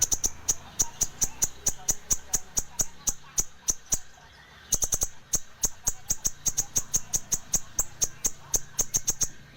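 A konin songbird calling in a fast string of sharp, high chip notes, about four or five a second, breaking off briefly a little past the middle and then resuming with a quicker run.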